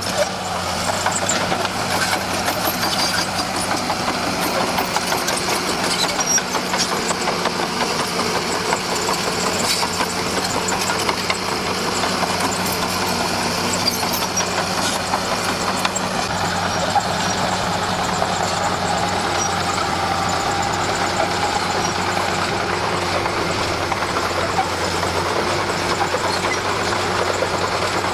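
Diesel engine of a Komatsu D41P crawler bulldozer running steadily, with a constant low hum and scattered short clanks.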